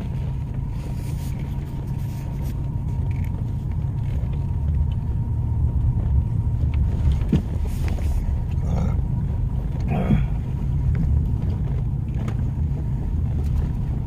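Steady low road-and-engine rumble inside the cab of a moving truck, with a few faint brief sounds about two-thirds of the way through.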